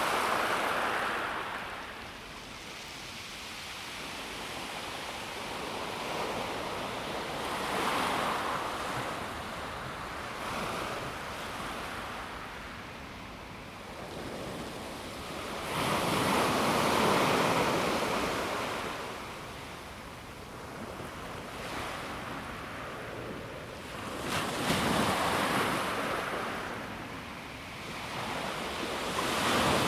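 Calm sea waves washing onto a pebble beach, swelling and ebbing in slow surges every several seconds, the loudest about halfway through.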